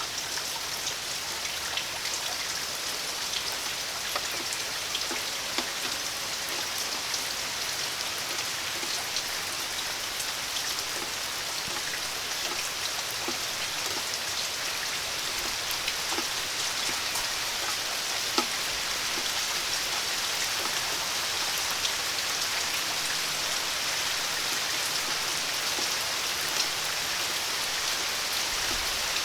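Steady rain falling, with individual drops ticking on nearby surfaces.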